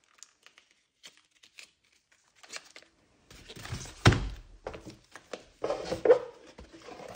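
Handling noise from an airsoft pistol and its cardboard packaging: a few faint clicks, then rustling with a solid thunk about four seconds in, and more rustling and knocks after it.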